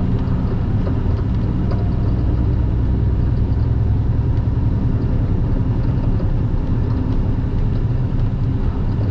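Semi truck's diesel engine running steadily at road speed, a deep even drone with road noise over it.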